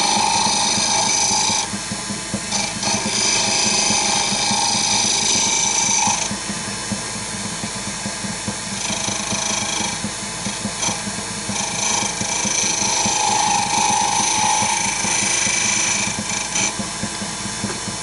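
A wood lathe runs steadily while a turning tool cuts at the spinning wood of a small spindle. The cutting hiss comes and goes in several stretches as tool marks are worked off the surface.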